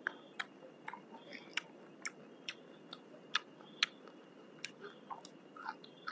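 A person eating with sharp, wet mouth clicks of chewing about twice a second. Underneath are a faint steady high insect trill and a low even hiss.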